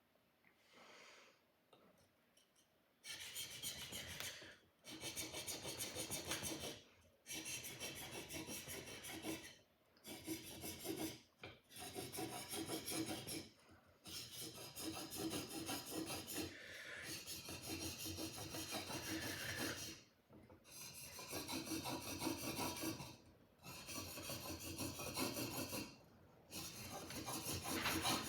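Sword blade being sharpened by hand: after a few quiet seconds, a series of long rasping strokes, each lasting one to several seconds with brief pauses between them.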